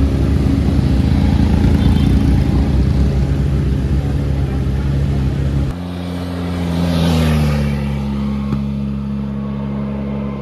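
Superbike engines running loud and dense for the first half; then, after an abrupt change, a single engine note holds steady and falls in pitch around the middle of the second half as a bike passes.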